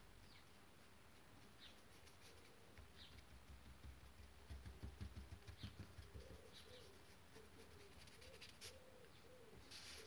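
Faint background bird calls: a run of low cooing notes repeating about twice a second in the second half, with a few faint high chirps. A soft low rumble about halfway through is the loudest part.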